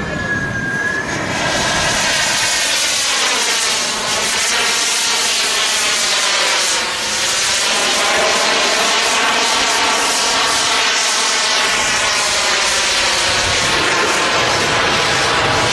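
Engine of a giant-scale radio-controlled model airplane running in flight, a steady drone whose pitch sinks to a low point about halfway through and then rises again as it flies past.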